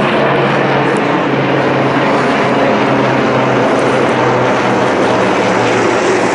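Propeller airplane engine running steadily, a loud even noise with a constant low hum underneath.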